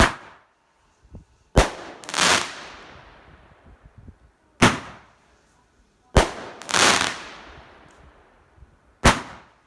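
A Roman candle firing shot after shot: five sharp pops a second and a half to three seconds apart, two of them followed by a longer noisy burst that fades out over a couple of seconds.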